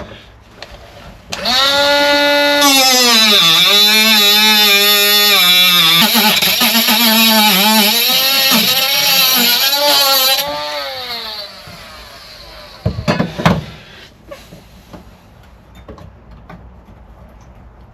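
Angle grinder with a cutting disc cutting through the rusted sheet steel of a Mk2 Ford Fiesta's boot floor. The motor's whine dips in pitch each time the disc bites under load and then recovers, with a hissing cut over it. After about nine seconds the cutting stops and the motor winds down, followed by a couple of knocks.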